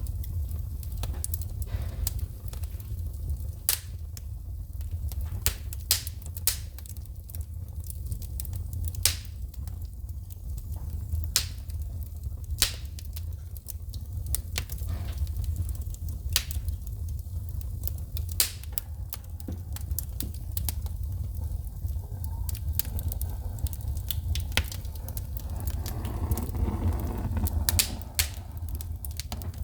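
Wood fire crackling, with frequent sharp pops of sparks shooting from the burning logs over a steady low rumble of the flames. Near the end a softer rushing sound swells for a couple of seconds.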